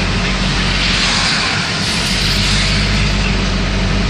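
Steady road and engine noise heard from inside a moving vehicle: a constant rushing hiss over a low, even hum.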